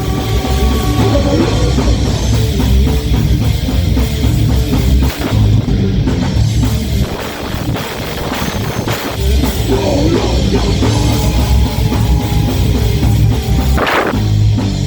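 Heavy metal band playing live, an instrumental passage with no vocals: drum kit and electric guitars.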